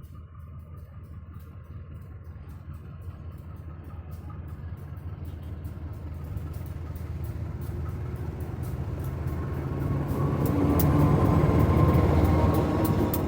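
CC 201 diesel-electric locomotive's GE 7FDL-8 diesel engine running with a deep, steady drone, getting louder from about eight seconds in and loudest around ten to twelve seconds as the engine speeds up.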